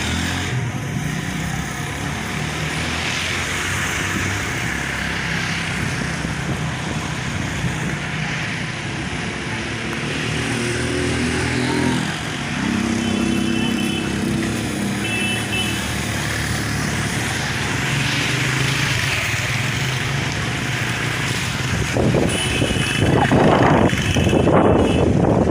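Motor vehicle engine running with steady road noise, getting louder near the end.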